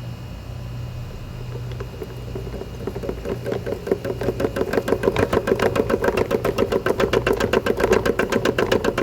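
Electrolux LPE17 top-load washing machine running, with a fast, even knocking, about eight to nine knocks a second, that starts about three seconds in and grows louder, as the drum picks up speed. The owner puts the noise down to a fault in the machine's suspension.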